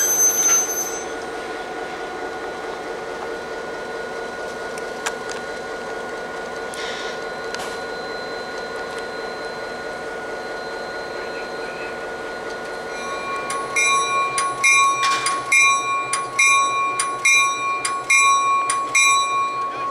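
Diesel locomotive running slowly past with its train of passenger coaches, a high wheel squeal fading out in the first second. From about two-thirds of the way in a bell rings steadily, roughly one and a half strokes a second, and is the loudest sound.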